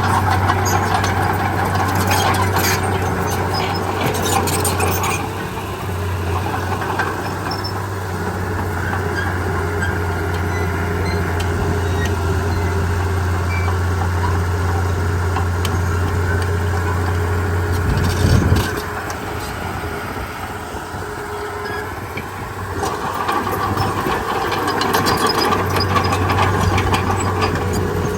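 Heavy diesel earthmoving machinery running steadily, with metallic clatter a few seconds in and a single sharp knock about 18 seconds in. After the knock the level drops for a few seconds, then rises again.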